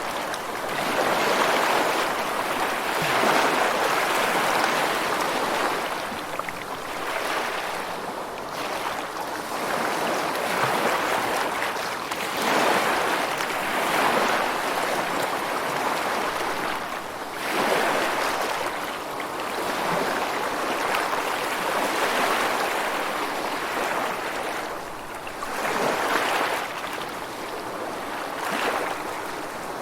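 Ocean surf: a rushing wash of water that swells and fades every few seconds as the waves come in and draw back.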